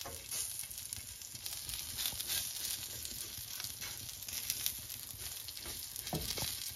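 Chicken tikka skewers sizzling in shallow oil in a frying pan: a steady hiss with small crackles as oil is brushed over them.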